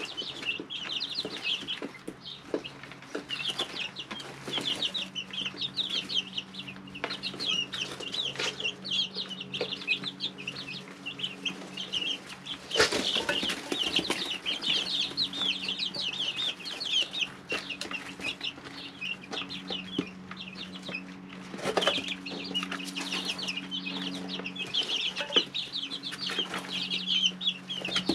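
A brood of three-week-old chicks peeping constantly, many short high chirps overlapping, over a steady low hum. Twice, about halfway and again later, a brief rustling burst rises over the peeping.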